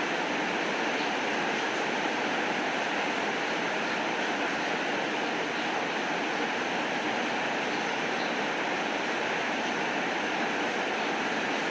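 Steady rain falling, an even unbroken hiss with no changes in level.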